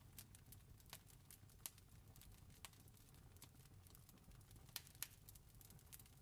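Faint wood fire crackling: irregular small pops and snaps over a low steady rumble, with two sharper snaps close together about three-quarters of the way through.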